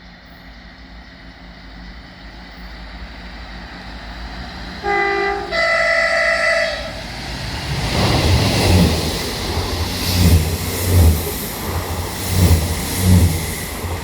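A train approaching with a growing rumble sounds a two-tone horn about five seconds in: a short lower note, then a longer higher one. It then passes close by, its wheels thudding at a steady rhythm over the rail joints.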